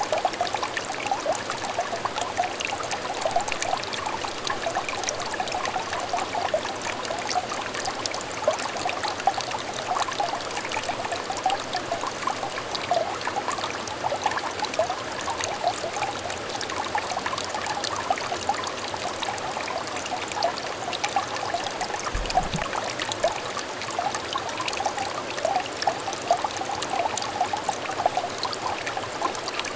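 Small stream of water trickling and babbling steadily, a dense patter of little splashes and bubbling over stones, with a brief faint low bump about 22 seconds in.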